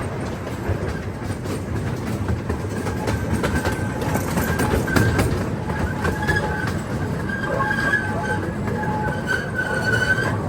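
A train running on rails, with a steady rumble and the clicking of wheels over the track. From about four seconds in, a high-pitched wheel squeal comes and goes, strongest near the end.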